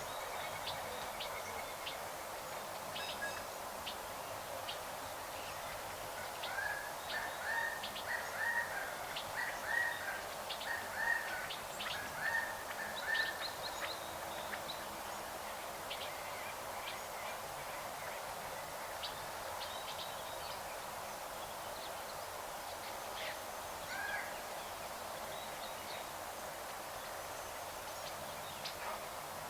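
Birds calling over a steady background hiss: a run of short, repeated calls from about six to thirteen seconds in, with scattered brief chirps throughout.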